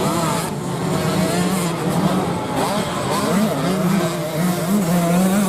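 Racing dirt-bike engines running, their pitch rising and falling slightly as the riders work the throttle.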